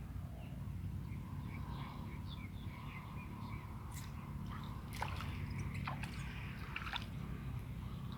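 Outdoor ambience: a steady low rumble with faint, short high chirps and a few sharp clicks in the second half.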